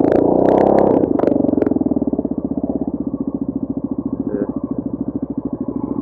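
Vehicle running at highway speed, heard as a fast, even pulsing of engine and wind through an action camera's built-in microphone, with a few sharp clicks in the first two seconds.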